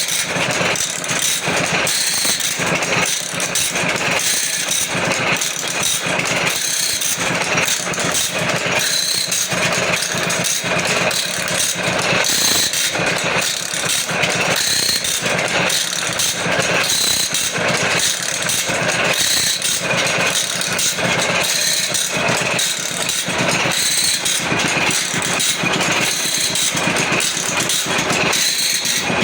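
Automatic band saw blade sharpening machine running: a continuous rapid mechanical clatter over a steady motor hum.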